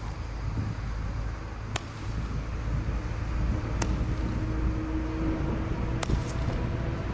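Consumer fireworks from a selection box going off, heard as sharp small pops about every two seconds over a steady low rumble of wind on the microphone.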